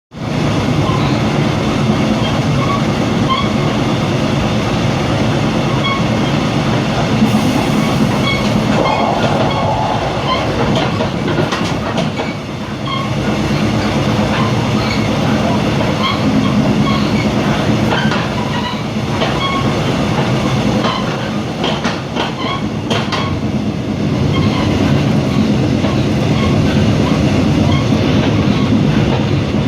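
Mugunghwa-ho passenger train running steadily on the rails through a station, a continuous wheel-on-rail rumble with the clickety-clack of rail joints and scattered small clicks and squeaks.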